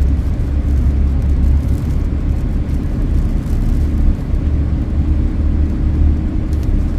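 Strong dust-storm wind buffeting the microphone: a loud, gusting low rumble.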